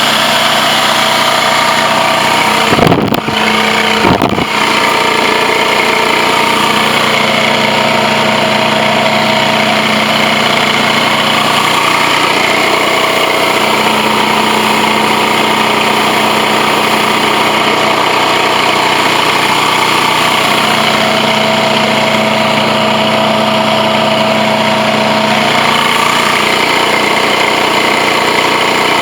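Blue Baron Compact 45 truck-mount carpet extractor running steadily, a loud even machine drone with several held tones. Two brief sharp knocks about three and four and a half seconds in.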